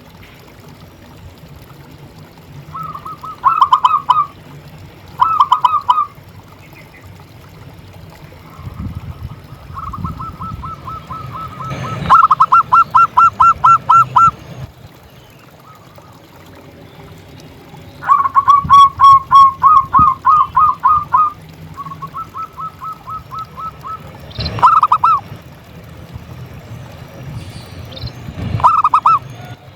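Zebra dove (perkutut) cooing: repeated bouts of quick, rhythmic coo notes, about eight a second, some short and some running for two or three seconds, loudest in the long bouts in the middle.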